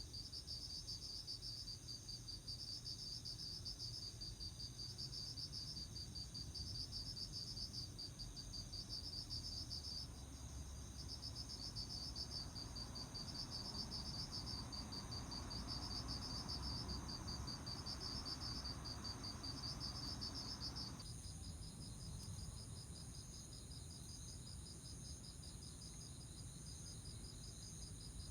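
Autumn crickets chirping in a chorus of high, pulsed trills that repeat about once a second, over a low background rumble. About three-quarters of the way through the chorus changes abruptly to a steadier, more continuous trill.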